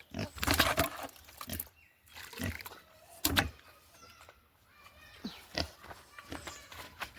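Pigs grunting and calling in short bursts, several within a few seconds.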